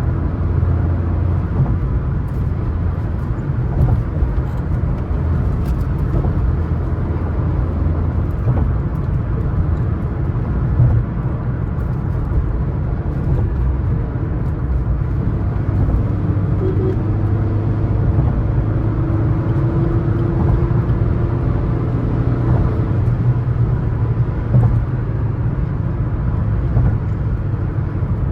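Suzuki S-Cross 1.3 DDiS diesel cruising at highway speed, heard from inside the cabin: a steady low rumble of engine and tyre noise. A humming drone joins for several seconds past the middle.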